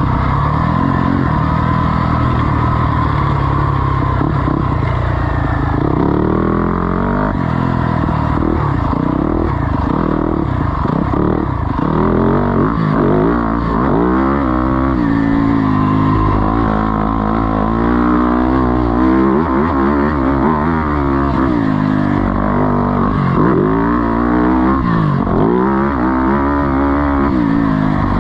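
Single-cylinder four-stroke off-road engine being ridden hard, the revs rising and falling over and over as the throttle opens and shuts and the rider shifts gears.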